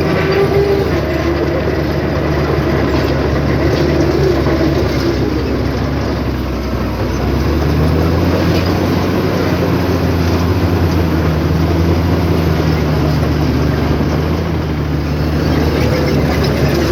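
Heavy diesel engine of earthmoving machinery running steadily with mechanical clatter, its engine note shifting about seven seconds in.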